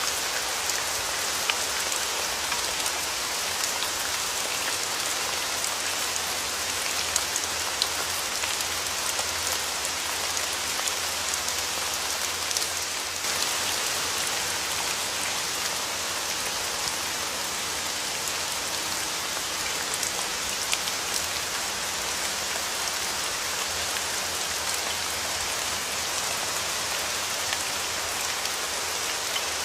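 Steady rain falling, a continuous hiss with scattered sharper ticks of individual drops landing.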